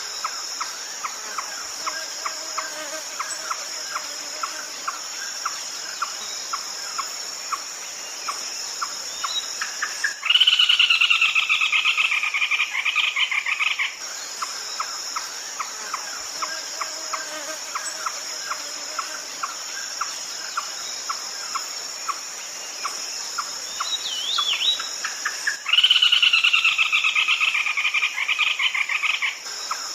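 Red-legged crake calling twice: each call a loud, rapid run of notes of about three and a half seconds, falling slightly in pitch. Behind it, a steady high insect chorus and a regular clicking call about twice a second.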